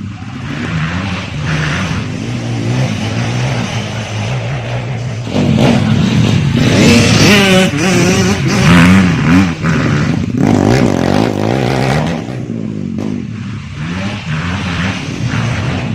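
Grasstrack motorcycle engine revving up and down as the bike is ridden round a dirt circuit, louder and higher in pitch through the middle, then dropping back.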